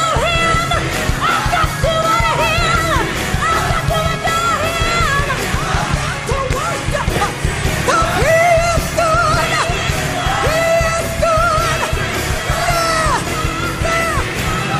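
Gospel choir singing loudly with full band accompaniment, strong lead and choir voices with bending, shouted notes over a driving beat.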